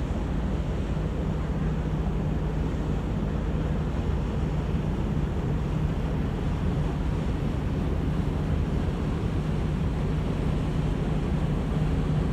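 Steady low drone of a cargo ship's engine, with one constant hum and a haze of wind and water noise around it.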